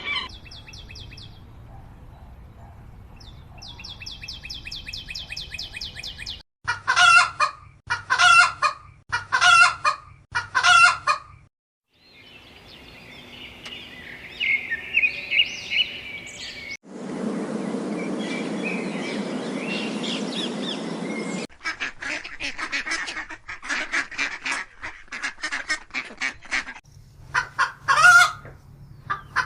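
A series of separate bird and fowl call recordings: faint repeated chirps, then four loud honking calls about a second apart, then a steady hiss lasting about four seconds, then a rapid run of short calls.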